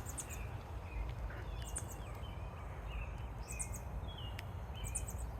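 Small songbirds chirping: clusters of high, thin notes and short gliding chips repeat every second or two, over a steady low outdoor rumble.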